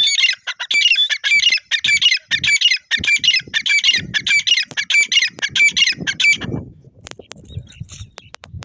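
Francolin (teetar) calling loudly: a fast, harsh series of repeated notes that stops about six and a half seconds in. A few faint clicks and low rustling follow.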